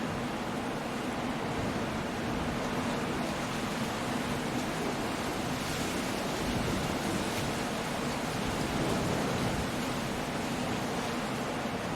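Stormy sea on a rocky coast: surf and wind blending into a steady, dense wash of noise, with no single wave standing out.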